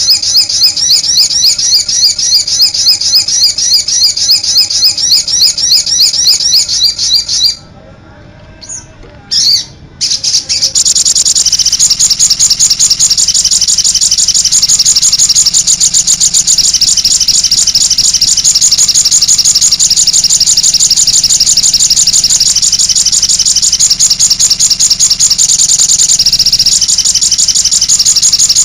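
Recorded songbird song for training caged birds: loud, rapid, repeated high chirping phrases. It breaks off about seven seconds in for a few seconds of near quiet, then a dense, continuous run of fast high chirps and trills starts up.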